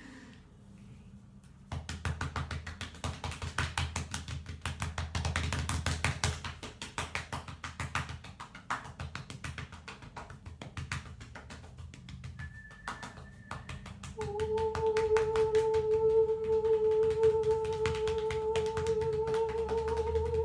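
Rapid tapping, many taps a second. About two-thirds of the way in, a steady held vocal tone with a slight waver joins it: sound-healing toning meant to help unblock energy.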